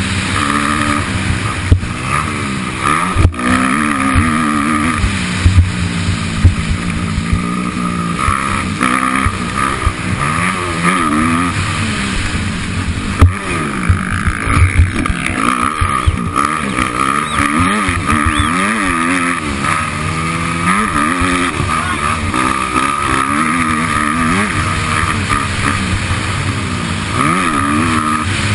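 Motocross bike engine being ridden hard, revving up and falling back over and over, with a few sharp knocks.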